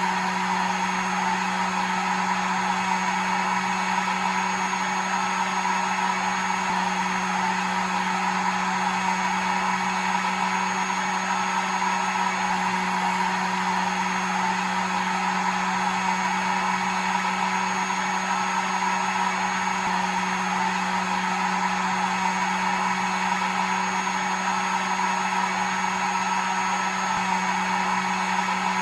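Hair dryer running steadily: an even blowing rush over a steady motor hum, with a faint high whine on top.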